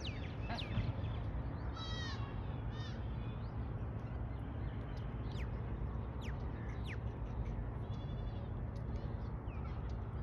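Goats bleating: two short bleats about two seconds in and another near the end, over a steady low rumble, with a few short falling chirps in between.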